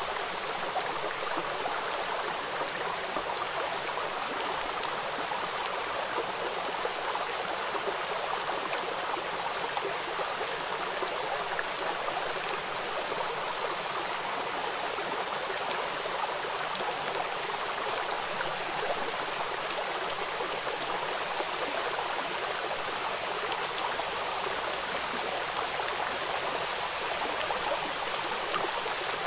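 Steady rain falling and splashing on a wet hard surface: an even hiss with many small ticks of single drops.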